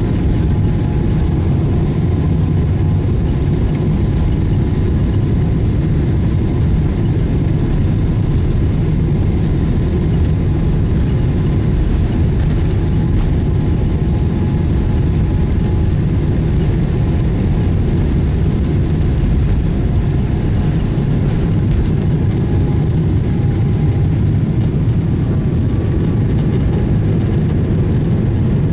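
Boeing 777-300ER cabin noise from its GE90-115B turbofan engines and the airflow, heard inside the passenger cabin: a loud, steady low rumble with a few faint steady tones above it.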